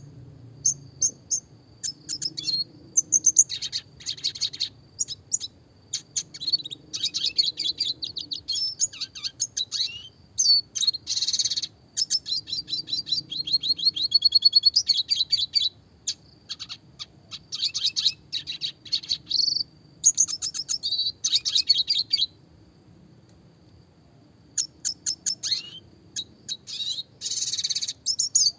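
Red siskin singing: rapid high-pitched twittering trills and chips in bursts, with a pause of about two seconds near the end.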